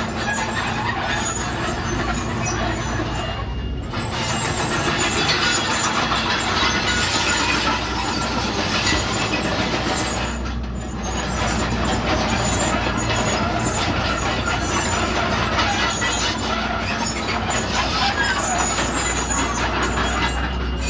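Komatsu D31PX bulldozer's diesel engine running steadily while it works, with continuous mechanical clatter and squeal from the machine, dipping briefly twice.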